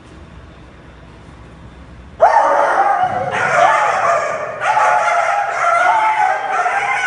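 Loud, high dog-like whining and yelping cries, drawn out and wavering in pitch. They start suddenly about two seconds in, after a faint low rumble, and go on in a run of long cries.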